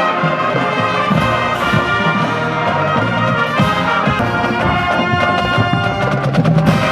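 A band playing a loud brass-led piece, with trumpets and trombones over a steady beat of drums.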